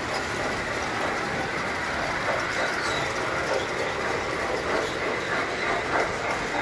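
Several tinplate toy trains running on a layout's metal track, a steady clatter of wheels and motors.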